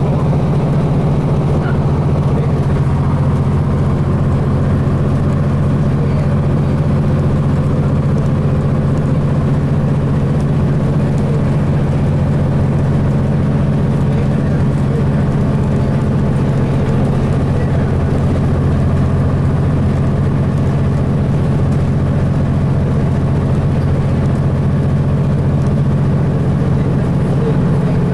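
Cummins ISC inline-six diesel engine of a 2002 Blue Bird transit bus running with a steady, low drone, heard from inside the bus.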